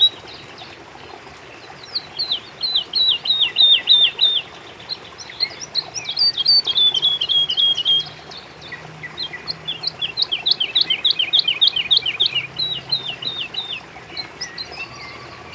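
Songbirds singing: bouts of rapid trills, each a quick run of short, high, downslurred notes lasting a few seconds, with brief gaps between bouts, over a faint steady background hiss.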